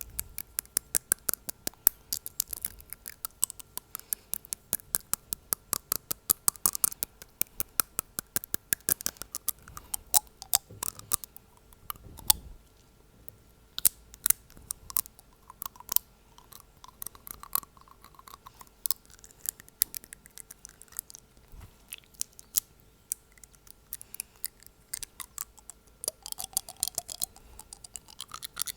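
A fingernail tapping on teeth, making sharp clicks, about four or five a second at first. About twelve seconds in there is a short pause, then slower, irregular runs of taps.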